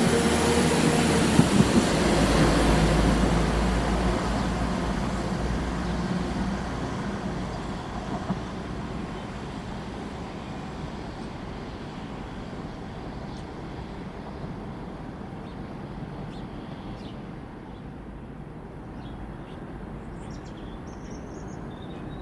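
West Midlands Railway Class 172 diesel multiple unit passing at speed, engine drone and wheel-on-rail rumble loud at first and fading away over the first eight seconds or so, leaving a low steady background.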